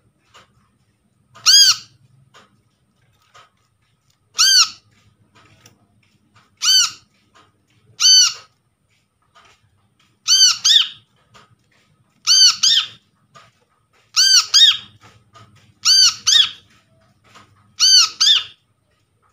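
Brown-throated sunbird (kolibri kelapa) calling over and over: short, loud notes that rise and fall in pitch, about one every two seconds, most of them quickly followed by a second note.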